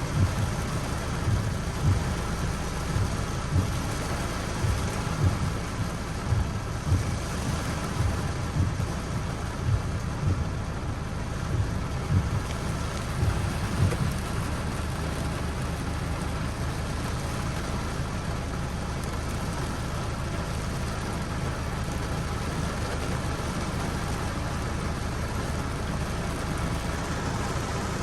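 Steady rain falling, with irregular low thuds in the first half that stop about halfway through.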